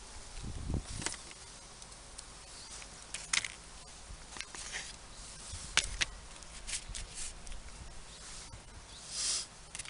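Hand tools being worked by hand: a scatter of sharp clicks and snaps, a few low thumps and a short rasp about nine seconds in.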